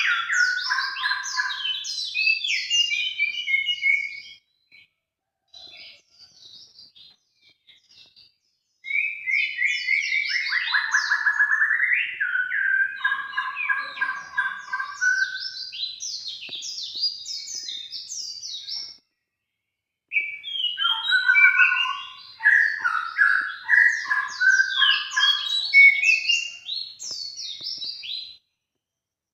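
Songbird song used as a bird-luring recording: long, loud phrases of rapid, varied chirps, trills and whistles, coming in three stretches separated by short pauses, with a held whistle near the start and again in the middle stretch.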